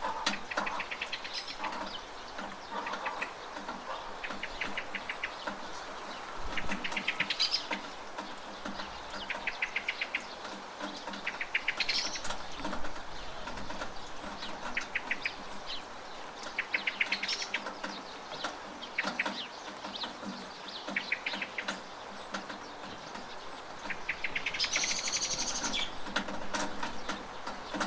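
Steady rain falling, with birds calling over it in short, rapid chattering trills that repeat every second or two. One louder, higher call comes near the end.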